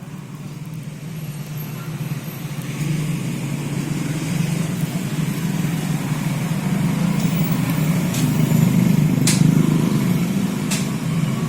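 Toyota Land Cruiser 200 Series V8 engine running steadily, building a little over the first few seconds, with a few sharp clicks near the end.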